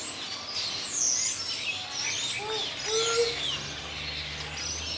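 Several birds chirping and whistling, with many quick high calls overlapping and a few lower whistled notes in the middle. A faint low hum comes in about halfway through.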